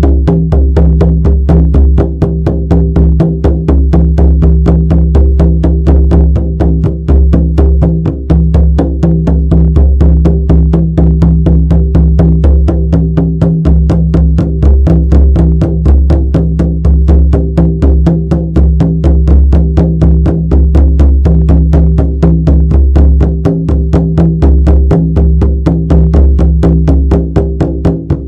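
Shamanic frame drum beaten in a fast, even, unbroken rhythm, each strike leaving a deep booming resonance that carries into the next.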